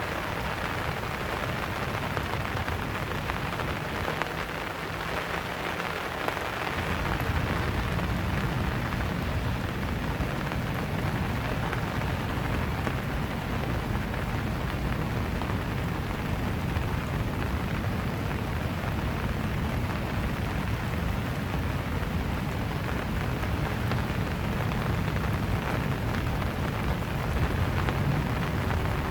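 Steady rain falling, an even hiss of drops. About seven seconds in, a low rumble comes in underneath and carries on.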